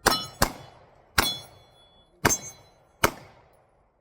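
Five pistol shots at uneven intervals, each with steel targets ringing after the hits.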